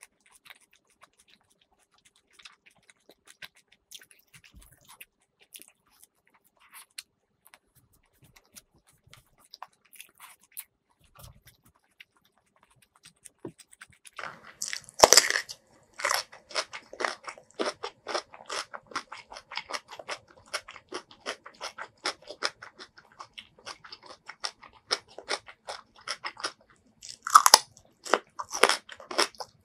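Faint chewing clicks, then a loud crunch about halfway through as a raw red radish is bitten. Crisp, rapid chewing follows at about three crunches a second, with a second loud bite near the end.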